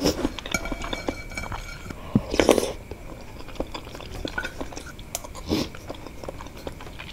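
Close-miked chewing and wet mouth sounds of someone eating wontons from a spicy soup, with small clicks throughout. Two short, louder noisy bursts come about two and a half seconds in and again near six seconds.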